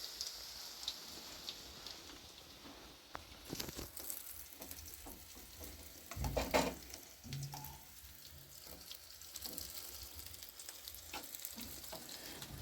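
Food frying in a pan, sizzling and crackling with scattered small pops, and a louder low thump about six seconds in.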